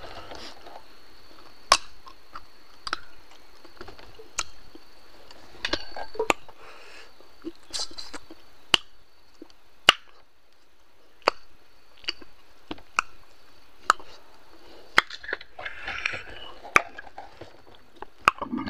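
A man chewing food with his mouth open, with sharp wet lip-smacking clicks about once a second.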